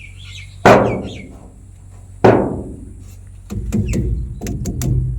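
Two loud knocks about a second and a half apart, each ringing away slowly, then from about three and a half seconds in a rapid clatter of knocks over a low rumble. Faint bird chirps come near the start.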